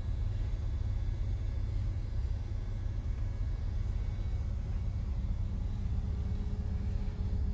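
Steady low rumble of a diesel multiple-unit train, heard inside the passenger cabin. A faint steady tone joins near the end.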